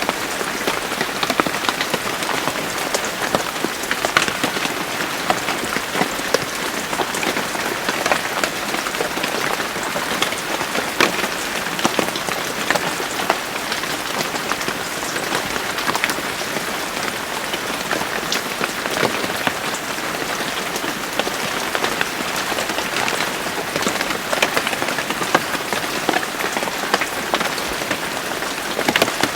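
Steady rain falling, with a constant hiss and many small sharp drop ticks on nearby surfaces.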